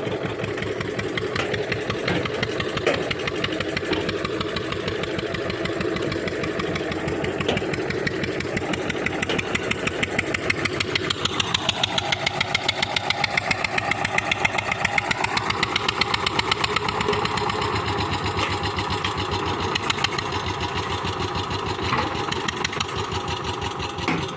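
Tractor diesel engine running with a steady, even beat. About halfway through, its note drops over a couple of seconds and then climbs back, as if the engine is pulled down under load and recovers.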